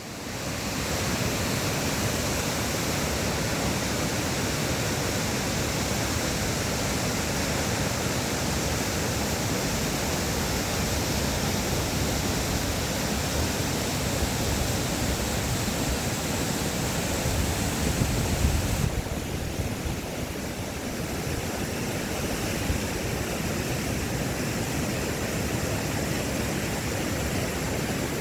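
Mountain valley stream rushing over rocks: a steady, full wash of water that swells up in the first second. About two-thirds of the way through, the highest hiss thins out while the rush goes on.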